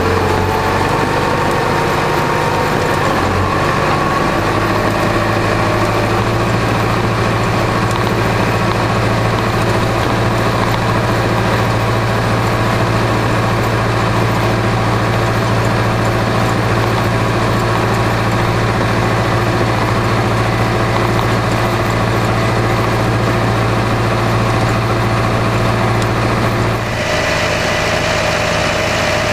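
Massey Ferguson 3075 tractor engine running steadily while ploughing. Its pitch shifts a little in the first few seconds, and the sound changes abruptly near the end.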